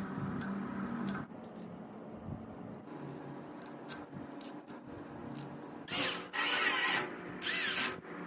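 Workshop handling of small mechanical parts: a steady low hum that cuts off about a second in, then scattered light clicks and taps, and two short noisy bursts near the end, each about a second long.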